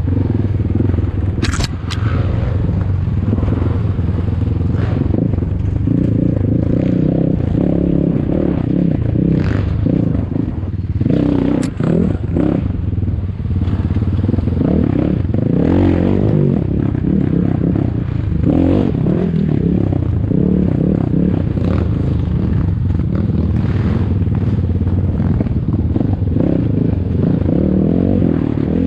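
ATAKI DR 250 enduro motorcycle engine running under varying throttle while riding over rough ground, with scattered knocks and rattles from the bike.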